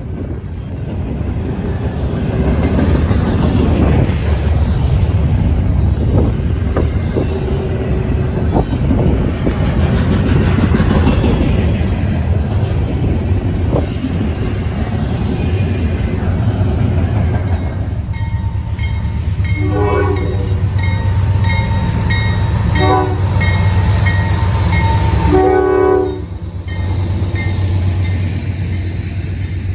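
A double-stack intermodal freight train rolling past close by, its wheels rumbling and clattering over the rail. Then Norfolk Southern GE diesel locomotives approach with their engines running, and the horn sounds three short blasts.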